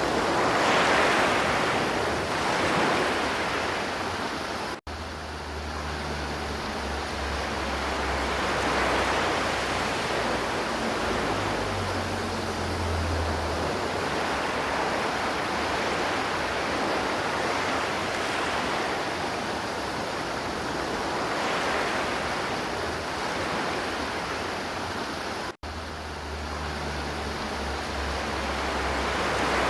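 River water rushing and flowing in a steady wash with slow swells. The sound cuts out for an instant twice, about five seconds in and near the end, each time followed by a low rumble.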